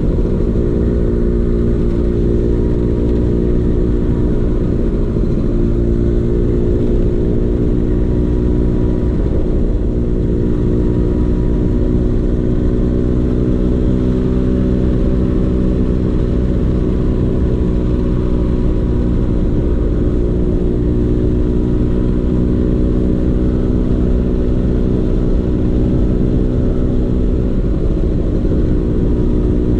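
Vespa PX 150's two-stroke single-cylinder engine running at a steady pitch through a DRC Victory racing exhaust.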